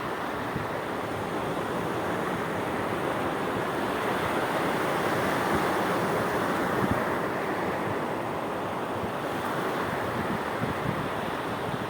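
Sea waves washing in steadily, with one swell building and easing off about midway.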